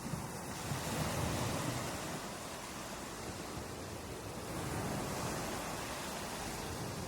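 Ocean surf breaking and washing on a shore: a steady rush of water noise that swells about a second in and again around five seconds.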